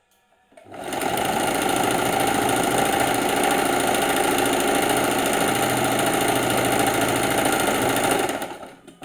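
Sewing machine running at a steady fast speed, stitching with a rapid, even clatter; it starts about half a second in and stops near the end.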